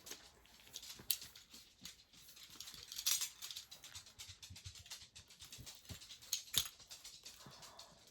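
Packaging of a desk calendar being handled and opened by hand: irregular rustles, crinkles and small clicks, loudest about three seconds in and again near six and a half seconds.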